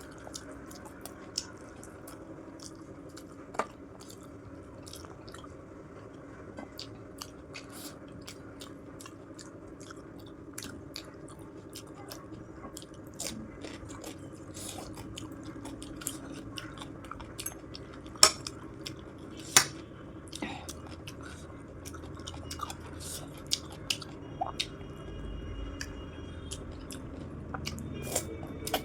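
Close-miked mouth sounds of a person chewing food in big bites, with many small wet clicks and crunches and two louder sharp clicks a little past the middle.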